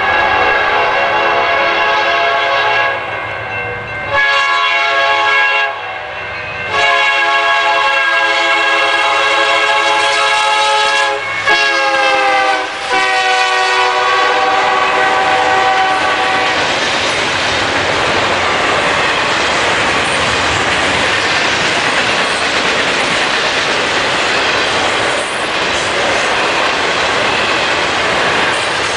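Diesel freight locomotive's multi-note air horn sounding five blasts, the later ones sliding down in pitch as the locomotive passes. Then a steady rush and clatter of double-stack container cars rolling by on the rails.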